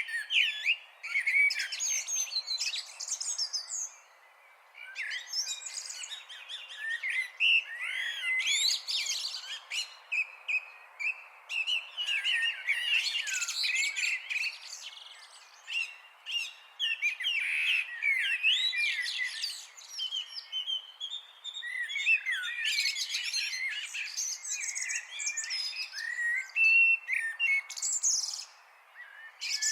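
Birds chirping and singing, a busy stream of quick high twitters and whistled glides that overlap, with brief lulls about 4 and 16 seconds in and again near the end.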